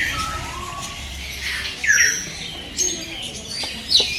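A flock of small parrots, budgerigars and lovebirds, calling with a busy mix of sharp squawks and chirps. The loudest squawk comes about two seconds in, and another comes near the end.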